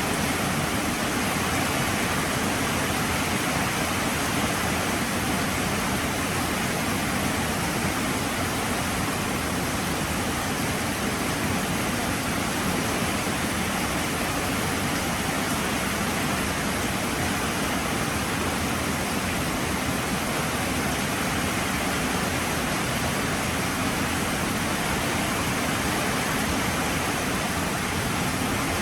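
Heavy rain falling as a steady, even hiss with no let-up.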